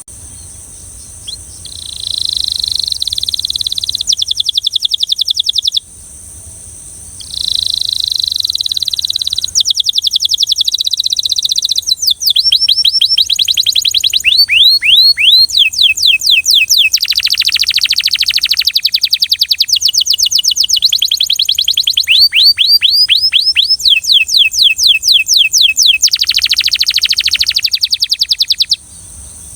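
Belgian canary singing: phrases of fast repeated notes and rolling trills, some notes sweeping downward, with a short pause a few seconds in and then song running almost unbroken until near the end. A faint steady high hiss lies underneath.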